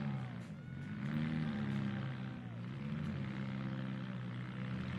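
Mini truck engine in a demolition derby revving up and falling back several times, over steady arena noise.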